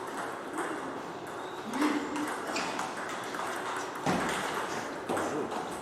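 Table tennis ball clicking off paddles and the table in an irregular rally, with a heavier knock about four seconds in.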